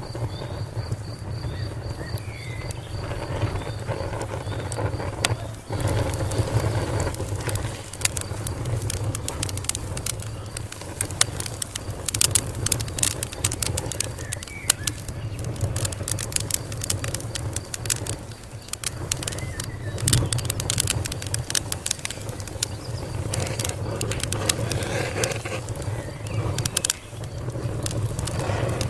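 Wood fire crackling, with irregular sharp pops and snaps over a steady low rumble; the pops come thicker after the first several seconds.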